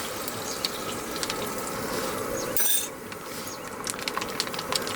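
Sauce and seafood crackling and sizzling in a hot pot, a steady hiss full of small pops, as soft tofu is added. About two and a half seconds in, a short metallic clink, after which the sizzle is quieter.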